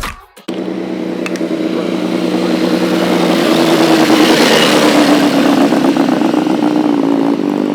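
Music cuts off about half a second in, then a motor vehicle's engine runs at a fairly steady pitch, growing louder toward the middle, with its pitch sagging slightly.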